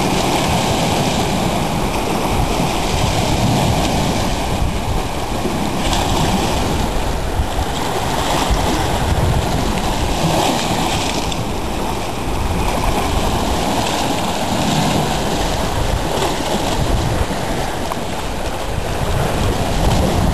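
Large wind-driven waves on Lake Superior crashing and washing on the shore, with strong wind buffeting the microphone. The rush swells and eases as the waves come in.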